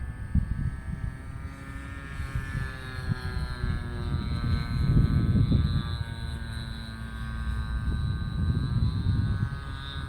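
Radio-controlled Kadet model plane's motor and propeller droning in flight, the note sagging a few seconds in and climbing again near the end. Gusty low rumbling swells up in the middle and again near the end.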